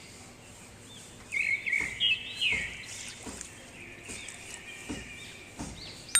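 Birds chirping in repeated short arching calls, with a louder burst of calls about a second and a half in. A sharp chime sounds right at the very end.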